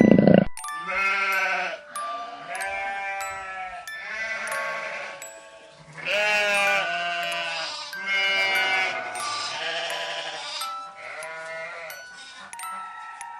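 Sheep bleating, about seven separate quavering bleats of about a second each, over soft background music. A loud roar cuts off in the first half second.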